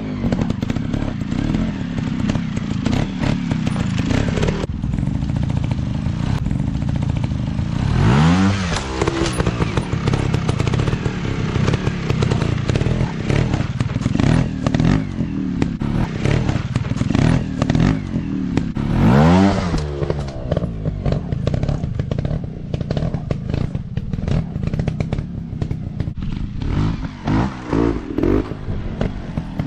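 Dirt bike engines running and revving on a practice track, with the revs sweeping sharply upward twice, about 8 and 19 seconds in. Clatter and knocks come through, and near the end the throttle blips on and off.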